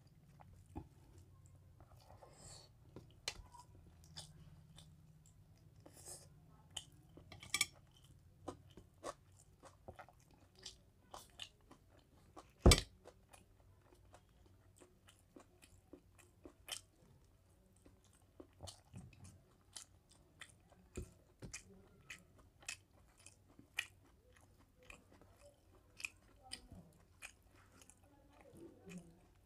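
A man chewing mouthfuls of mutton curry and rice close to the microphone: a run of irregular short mouth clicks, with one sharper, louder click about halfway through.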